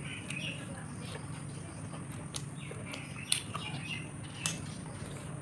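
Close eating sounds: chewing and lip smacks with a few sharp clicks, the loudest about three and four and a half seconds in, over a steady low hum. Birds chirp faintly in the background.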